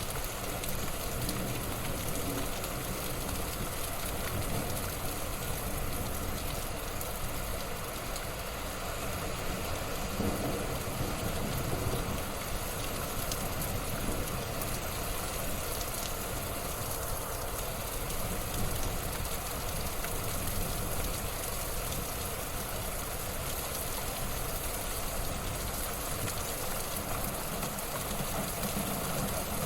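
Wood fire in a fireplace crackling and hissing steadily, with small pops scattered through it.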